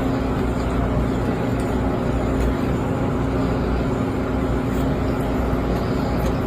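Steady machine rumble with a constant low hum, like a running engine or motor.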